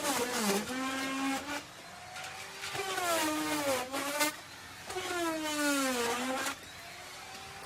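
Electric wood router cutting wood in three passes. During each louder pass the motor's whine drops in pitch as the bit takes the load, and between passes it runs quieter and lighter.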